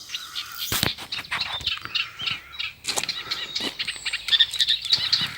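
Small birds chirping and singing continuously, with a few sharp knocks, the loudest about a second in.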